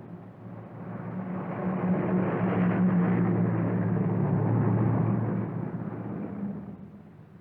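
Car engine sound effect that grows louder over the first two seconds, runs steadily, then fades away near the end, like a car driving past.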